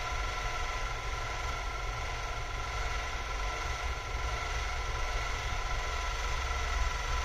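Steady machine hum: a low rumble under a faint hiss, with several thin high whining tones held level throughout.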